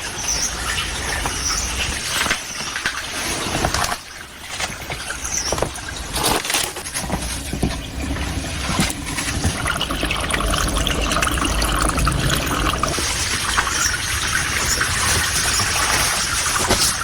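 Running water of a stream, a steady rush and trickle that dips briefly about four seconds in.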